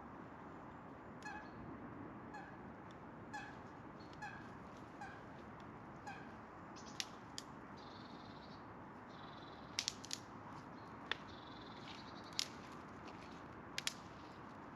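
Outdoor ambience with a steady hiss, over which an animal gives about six short pitched calls, roughly one a second, during the first six seconds. In the second half, a high thin tone holds for a few seconds while sharp pops and clicks come irregularly.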